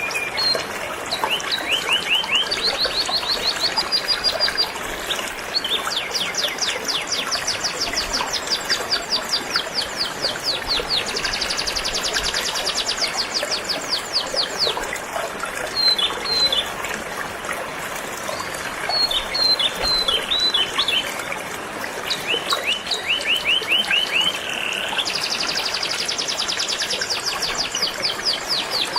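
Canary singing phrase after phrase of fast, high trills of repeated notes, with short separate notes between phrases, over the steady rush of flowing river water.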